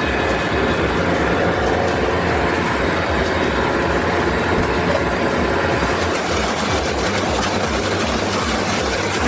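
A heavy engine running steadily: a loud, continuous rumble with a fast low throb.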